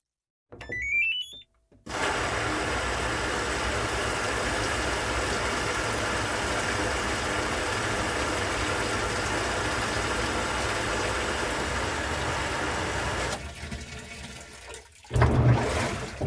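Sound effects: a short whistle-like tone sliding upward, then about eleven seconds of steady rushing, water-like noise that drops away, and near the end a sudden louder sound with heavy bass.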